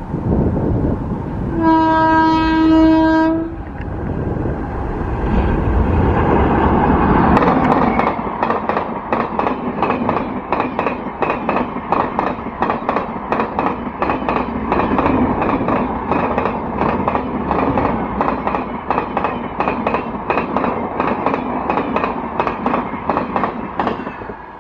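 Express passenger train on Indian Railways sounding a single steady horn blast about two seconds in, then rushing past at speed. Its wheels clatter over the rail joints in a fast, even rhythm until it has gone by near the end.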